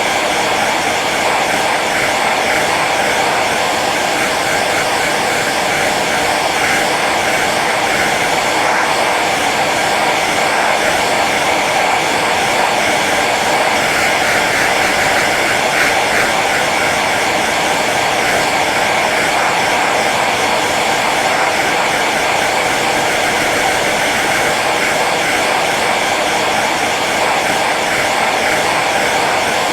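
Hair dryer running steadily on its low setting: an even, unchanging rush of blown air and motor whir.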